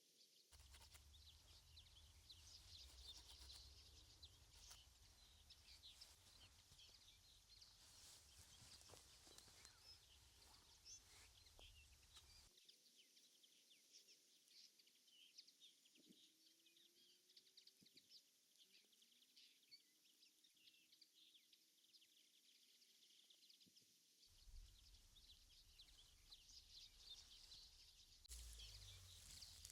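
Near silence: faint outdoor ambience with many small scattered ticks and crackles.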